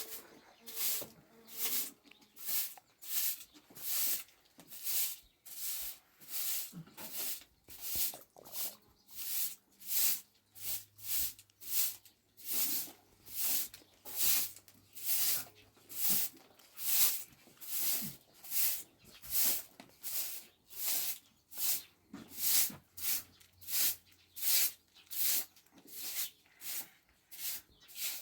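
Rhythmic hissing rubbing strokes, about two a second, kept up at an even pace, like a tool or brush being worked back and forth by hand.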